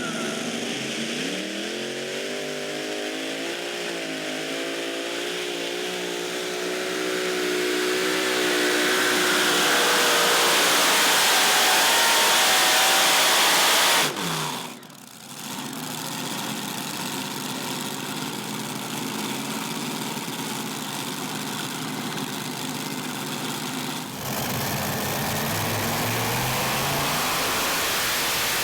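Competition pulling tractor's engine rising steadily in pitch as it accelerates, then running flat out at high revs. The sound cuts off abruptly about fourteen seconds in, giving way to another engine running hard, which changes abruptly again about ten seconds later.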